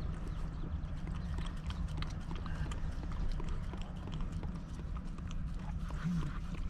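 A dog licking whipped cream out of a small pup cup: a quick, irregular run of wet licking clicks over a low steady hum.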